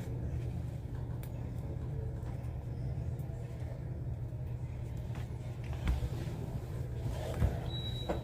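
Steady low rumble of a moving vehicle heard from inside, with two short thumps about six and seven and a half seconds in.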